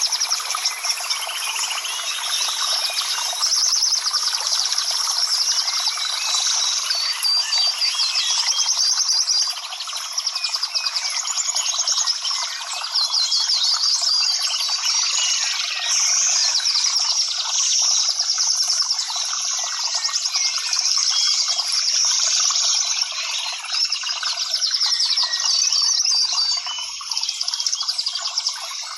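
Many birds chirping and calling at once, a dense chorus of quick overlapping chirps and short trills.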